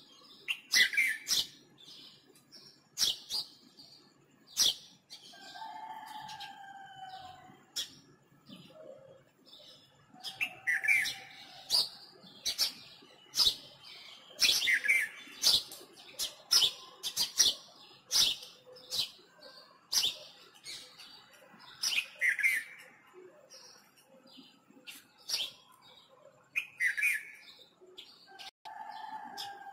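Backyard birds chirping: quick, sharp high chirps repeated many times, a falling whistled note every few seconds, and twice a lower, drawn-out call.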